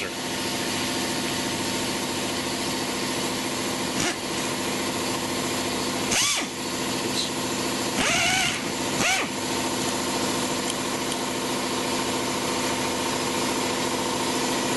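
Pneumatic air drill driving a screw, over a steady hum and hiss of air. A few short whines rise and fall in pitch about six, eight and nine seconds in as the trigger is worked and the screw bites.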